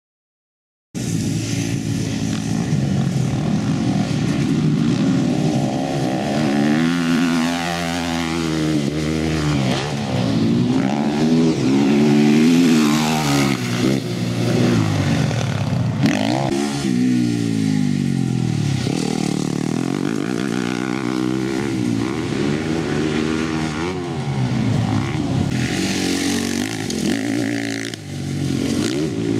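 Several motocross bikes running at once, their engines revving up and down as they are throttled and shifted, with overlapping pitches rising and falling. The sound starts abruptly about a second in.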